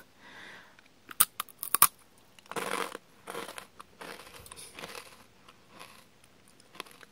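Biting into a sugar-coated Japanese rice cracker: a quick run of sharp crunches about a second in, followed by softer chewing.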